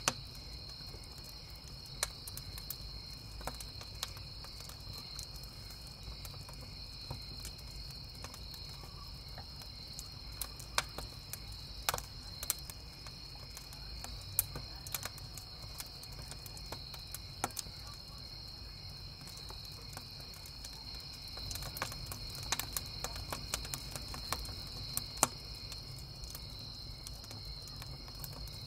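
Crickets chirping steadily in a high band, with the scattered sharp pops and crackles of a wood campfire, which come thicker in the last several seconds. A low steady rumble runs underneath.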